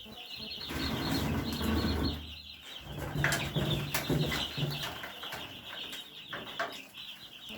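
A brood of broiler chicks peeping together, a dense, high chirping chorus, with a few short knocks.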